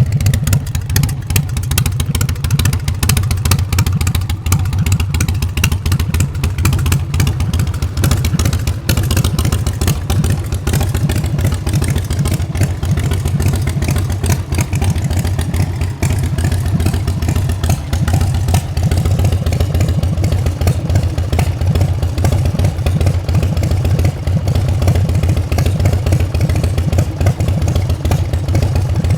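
Carbureted 117 cubic inch S&S V-twin of a Big Dog chopper running steadily through Mean Mother's aftermarket exhaust pipes, a loud, deep, pulsing exhaust note.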